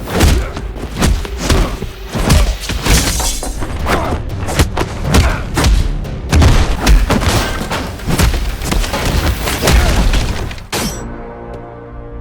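Sound-designed fight effects: a fast run of punches, hits and crashes with heavy booms and breaking-glass shatters over action music. About 11 seconds in the hits stop and a held music chord carries on alone.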